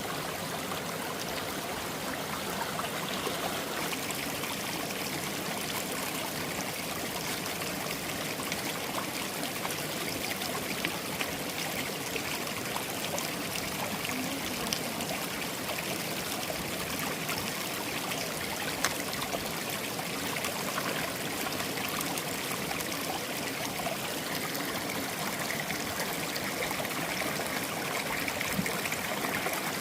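A stream flowing and trickling steadily, with a few faint ticks scattered through it.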